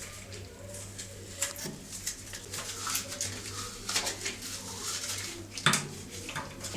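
Irregular clicks, knocks and scrapes of a small object being handled and cleaned, the sharpest knock about six seconds in, over a steady low hum.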